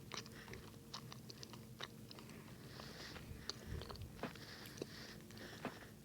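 Faint chewing and biting of a frosted Pop-Tart toaster pastry, heard as scattered small crunches and clicks.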